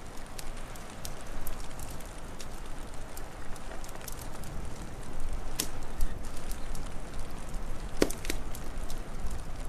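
Wood fire crackling over a steady hiss and low rumble, with scattered small snaps and a couple of louder pops about halfway through and near the end.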